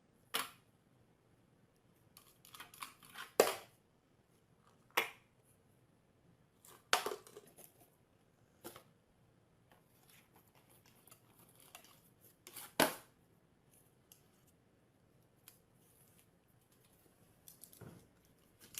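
A dozen or so sharp clicks and short rustles, irregularly spaced, with quiet between them; the loudest come about three and a half seconds in and near the thirteen-second mark.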